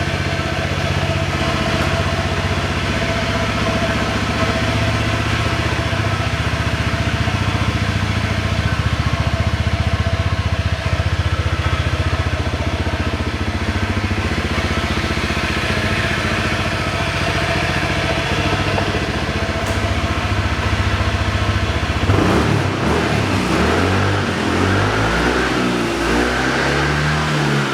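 Honda PCX125 (JF56) scooter's fuel-injected single-cylinder four-stroke engine idling steadily through an aftermarket custom exhaust. About 22 seconds in it is revved, the pitch rising and falling several times.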